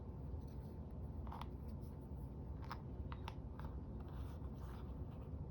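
Scissors snipping paper: a few short, scattered snips and paper rustles, faint.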